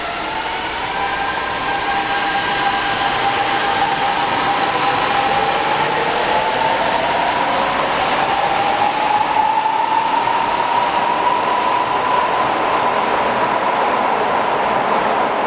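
Kyoto Municipal Subway 50 series train running under power, its traction motors whining in several tones that rise slowly and then level off as it gathers speed, over the steady rumble of the train.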